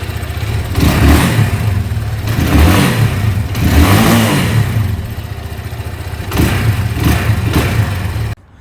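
Motorcycle engine running and being revved several times, each rev rising and falling over the steady running sound. It cuts off suddenly near the end.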